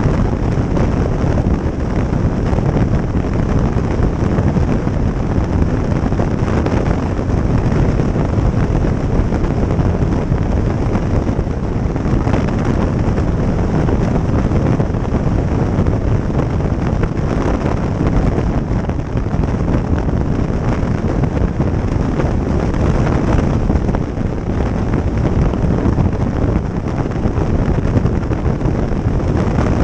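Steady wind rush buffeting the microphone on a motorcycle riding at speed, with the bike's running noise mixed into it.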